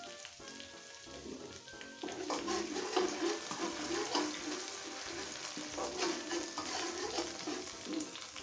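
Minced garlic, ginger and ground chili paste sizzling in hot oil in a wok, stirred and scraped with a metal spatula. The sizzling and scraping get louder about two seconds in, once the stirring starts in earnest.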